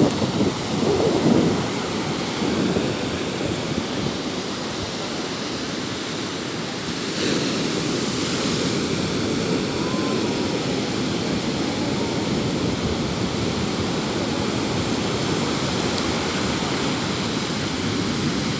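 Sea waves washing onto the shore in a steady surf, with a wave surging in louder about seven seconds in.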